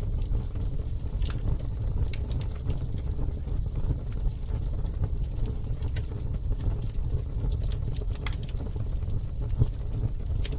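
Campfire burning, with irregular sharp crackles and pops of the wood over a steady low rumble of the flames.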